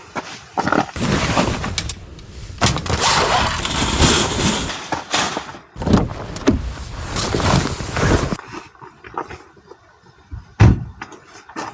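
Handling noises: long stretches of rustling and scraping, then small clicks and a sharp knock near the end.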